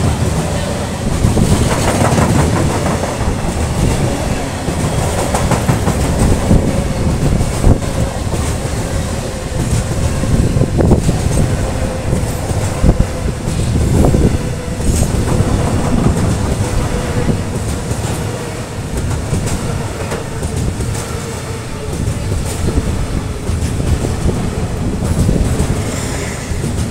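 Freight train of loaded flat wagons passing close by at speed: a loud steady rumble with the clickety-clack of wheels knocking over rail joints, and a faint whine that sinks slowly in pitch.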